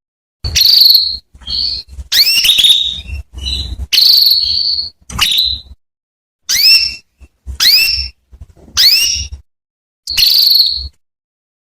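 Female canary giving repeated calls, about ten in a row: short chirps that sweep sharply upward, mixed with a few held whistled notes, each followed by complete silence. They are the calls a hen canary uses to call a male canary into song.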